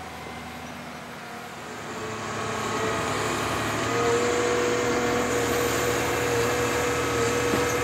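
Forestry harvester's engine running and building up, louder from about two to four seconds in, with a steady whine coming in on top.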